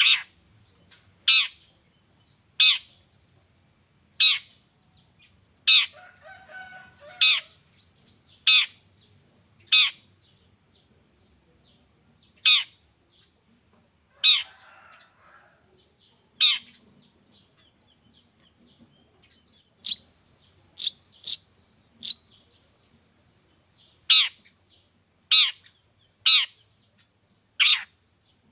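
Long-tailed shrike (cendet) giving loud, sharp single calls over and over, about one every second or so with a few short pauses. Softer twittering comes twice between them. This is a lure recording meant to set other cendet singing.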